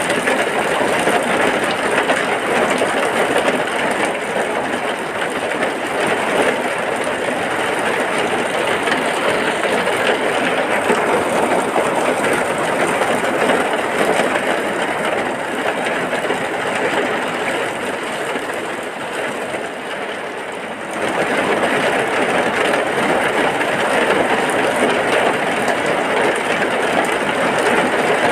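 Heavy rain falling steadily, a dense even hiss. It eases slightly about twenty seconds in, then comes back up suddenly.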